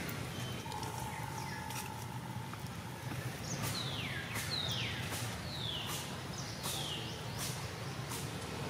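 A bird calling over outdoor ambience: one held whistled note, then a run of four quick falling whistles, with scattered faint clicks.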